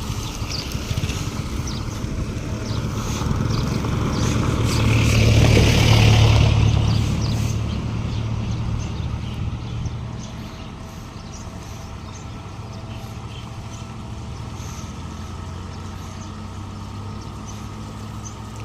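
Isuzu FTR 240 diesel truck driving past, its engine hum growing to its loudest about six seconds in and then fading away. A hiss, fitting water spray, peaks as it passes.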